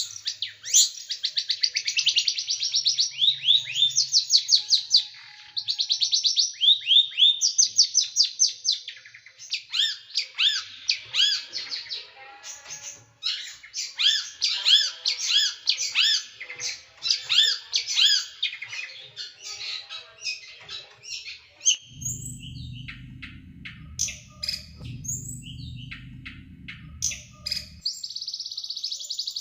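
Small songbird singing fast trills of sharp, high, down-slurred notes in loud rapid bursts, the 'shooting' (tembakan) phrases prized in tutoring recordings for cage songbirds. A low rumble runs under sparser notes for several seconds near the end, before another dense trill.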